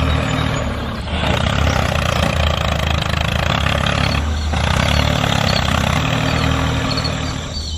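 Tractor engine running steadily, with two brief breaks, about a second in and again about four seconds in.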